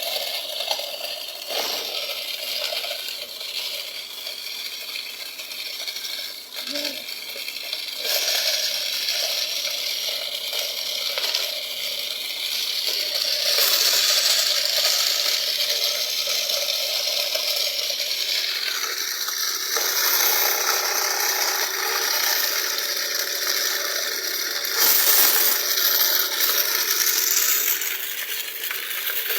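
Homemade toy tractor-driven wheat thresher running, with continuous metallic rattling and clinking.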